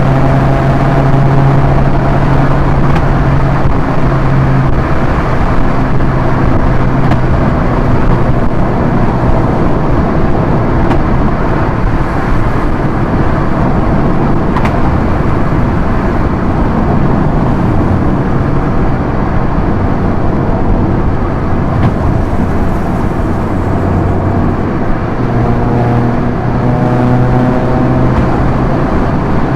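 Proton Inspira's 1.8-litre four-cylinder engine running at high motorway speed, a steady engine drone over heavy tyre and wind noise. The engine note sinks under the road noise for most of the middle and comes back near the end.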